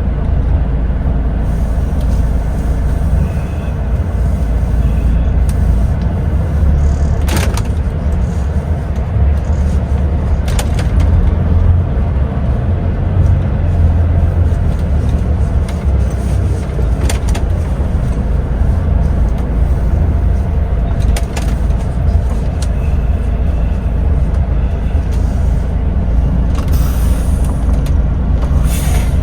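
Cab-interior drone of a DAF XF truck driving: steady low engine and road rumble, with a few short knocks or rattles scattered through it.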